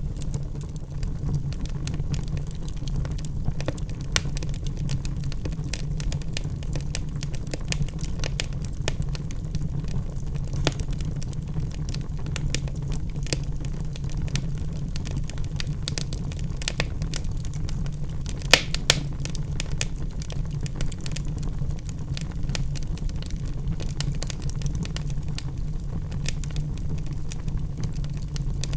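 Wood fire burning in a fireplace: a steady low rumble of the flames with frequent small crackles and pops from the logs, and a few sharper pops about two-thirds of the way through.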